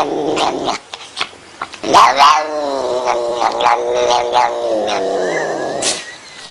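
Angry cat yowling: a long, low, wavering caterwaul fades out just under a second in, and after a short pause a second drawn-out yowl rises at about two seconds and holds for about four seconds, the warning cry of a cat ready to fight.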